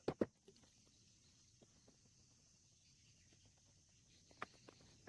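Two sharp hammer knocks on wood just after the start, then near quiet with a faint knock about four and a half seconds in, and the knocking starts up again at the very end.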